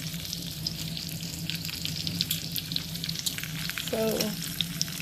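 Bacon frying in a skillet: a steady sizzle with many small crackling pops of spattering grease.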